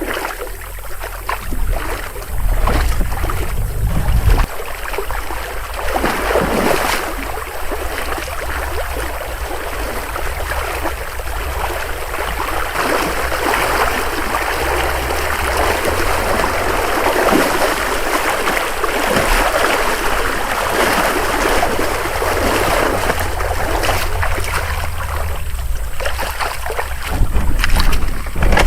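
Shallow river water rushing and splashing around a canoe being dragged upstream through a riffle, with wind buffeting the microphone.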